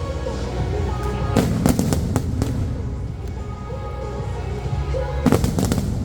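Aerial fireworks bursting in two quick clusters of bangs and crackles, one about a second and a half in and another near the end, over music playing throughout.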